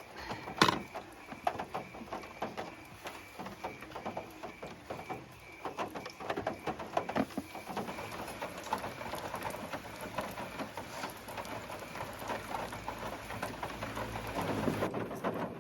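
Rain drumming on a car's roof, heard from inside the cabin: a dense, irregular patter of ticks and taps, with a low rumble building near the end.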